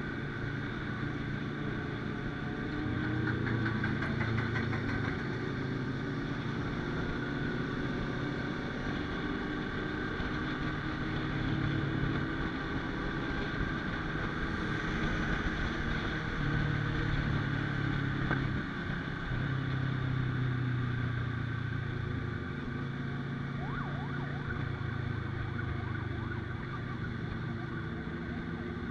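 A motor vehicle engine running steadily, its drone swelling and easing slightly.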